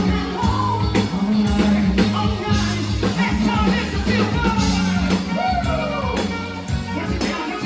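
Live yacht rock band playing a song, with a steady drum kit beat, bass, and a melodic line gliding over them.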